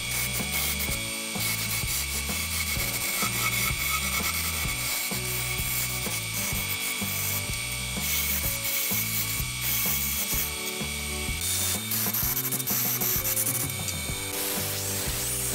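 Wood lathe spinning a wooden spindle while a hand gouge cuts it: a fast, rattling scrape of the tool against the turning wood. The cutting stops a little before the end, leaving a smoother hiss.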